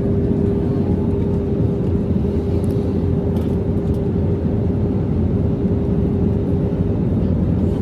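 Airliner cabin noise on the approach to landing: a steady deep rumble of engines and airflow with a constant hum running through it.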